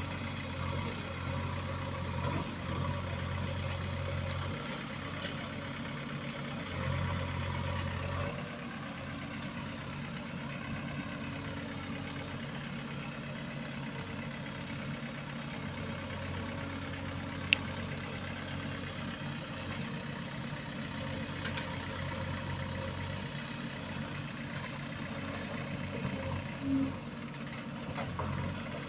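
Diesel engine of heavy earth-moving machinery running steadily at low revs, its deep hum dropping away about a third of the way in. A single sharp click about two-thirds of the way through.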